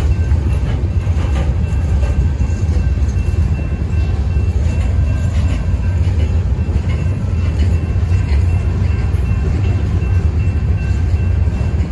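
Open-top cars of a Union Pacific ballast train rolling steadily past a grade crossing: a continuous low rumble of wheels on rail with light clicks, and a faint steady high tone over it.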